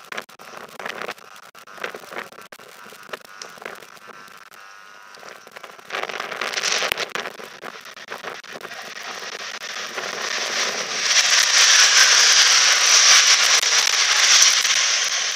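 Grand Central Class 180 diesel multiple unit passing close by on the line beside the platform. Its noise builds from about six seconds in to a loud hiss of wheels and rushing air near the end. Before it come a few scattered crackles.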